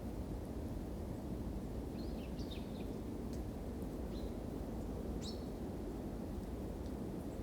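Campfire burning with a steady low rumble and a few sharp crackles. A small bird chirps a few times about two seconds in and again around four to five seconds in.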